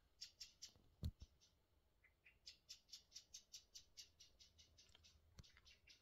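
Faint bird calls: rapid runs of short, high, scratchy chirps, about four or five a second, pausing briefly in the middle. A dull thump about a second in is the loudest sound, with a smaller one near the end.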